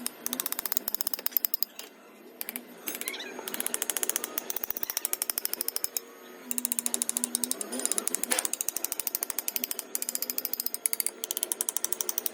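Workshop machinery making a fast, even run of sharp mechanical clicks, several a second, with short lulls about two seconds in and again about six seconds in.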